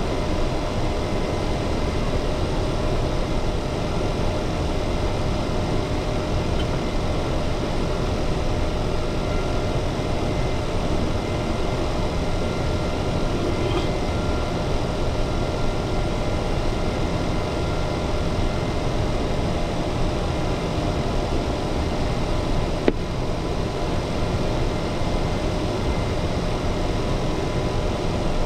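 Steady hum and rush of a parked Dassault Falcon 900's cockpit systems and ventilation, with a few faint steady tones in it. One brief click comes about 23 seconds in.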